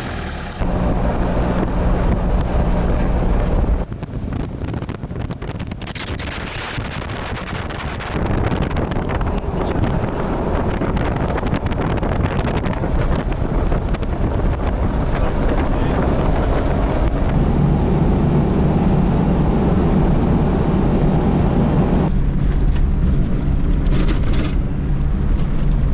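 A motor vehicle on the move: steady engine and road noise with wind on the microphone, changing abruptly in level and character several times.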